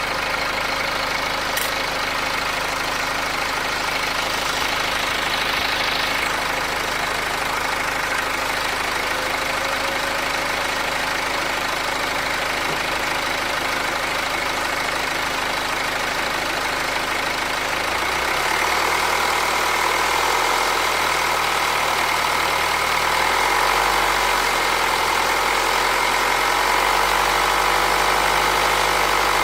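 BMW X3 F25's 2.0-litre N47 four-cylinder diesel running steadily, with a strange noise that the owner suspects is the timing chain. About two-thirds of the way through, the low engine tones shift and a mid-pitched whirring grows louder.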